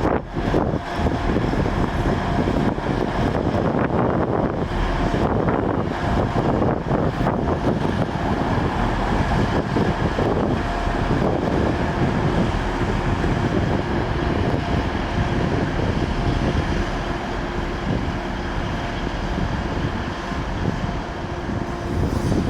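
A train running past close by, a steady loud rumble with a faint steady whine in it, and wind buffeting the microphone.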